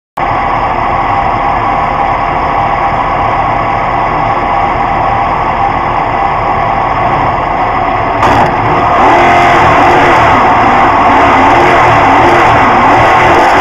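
Engine of a 650+ hp Corvette autocross car running while the car stands still, heard from onboard the cabin. About eight seconds in it gets louder, and the revs then rise and fall repeatedly as the throttle is worked.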